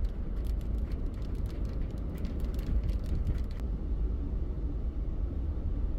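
Inside a car driving in the rain: steady low road and engine rumble, with scattered sharp ticks of raindrops hitting the car over the first three and a half seconds.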